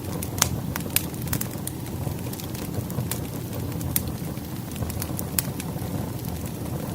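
Wood fire burning: a steady low rumble of flames with irregular sharp crackles and pops of burning firewood.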